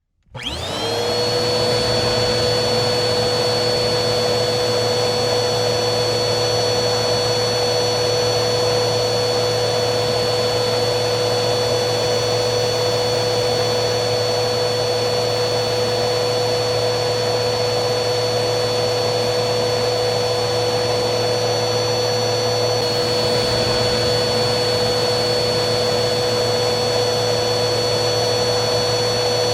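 Vacuum cleaner motor running with a steady rushing hum and a high whine. At the start it cuts out for a moment and comes back, the whine rising to its steady pitch within about a second.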